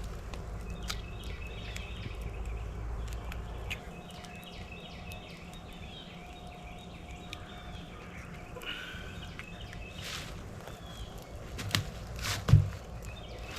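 Eggs being cracked open for cooking: a few sharp knocks near the end, the loudest about twelve and a half seconds in. Birds chirp in the background throughout.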